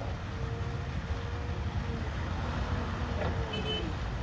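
Excavator's diesel engine running steadily: a low rumble with a faint steady hum above it.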